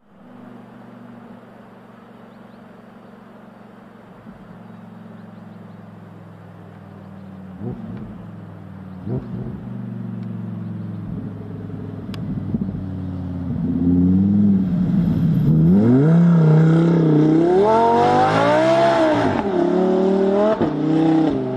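Lamborghini Huracán Sterrato's V10 engine running at a steady low pitch, with a couple of brief revs, then accelerating hard, its pitch climbing and dropping several times as it works up through the gears. The exhaust is loudest near the end before easing off.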